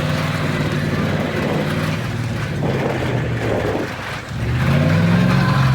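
Monster truck engine running hard; it drops off briefly about four seconds in, then revs back up.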